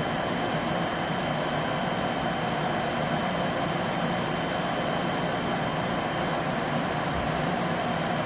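Steady machine hum and hiss with a faint constant high whine, unchanging throughout.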